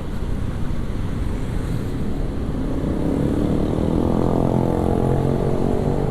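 Motorcycle engine running while riding, over a low wind rumble. About halfway in the engine hum becomes louder and clearer.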